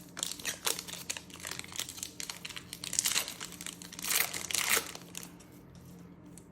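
Trading card booster pack wrapper being torn open and crinkled by hand, an irregular run of crackles, loudest about three and four seconds in and dying away after about five seconds.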